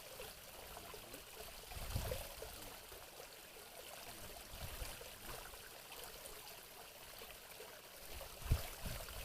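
Water trickling and flowing steadily into a small fishing pond. A dull low bump comes about two seconds in, and a louder one near the end.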